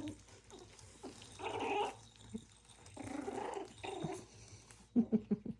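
Toy Schnauzer puppies growling and grumbling as they play-fight over toys, with a quick run of louder short yaps about five seconds in.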